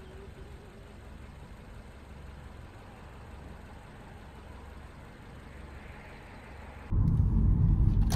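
Low steady rumble of a car running, then about seven seconds in a much louder low rumble cuts in suddenly.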